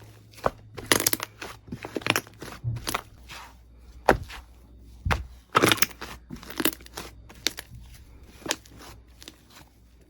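Slime being squeezed and pressed by hand, making irregular crackling clicks and pops in uneven clusters.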